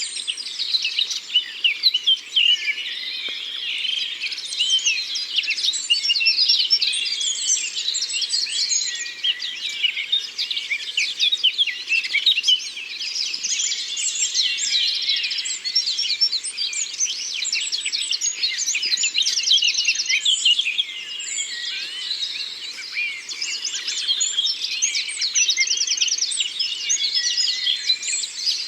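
Dense woodland chorus of many songbirds singing and chirping at once, overlapping warbles with a couple of fast trills standing out.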